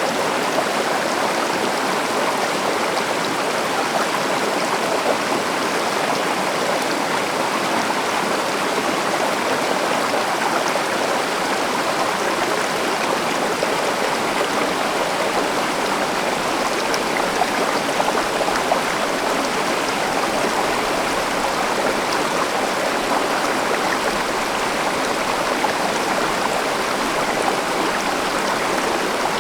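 A river or stream flowing over rocks: a steady rushing and babbling of water that does not change.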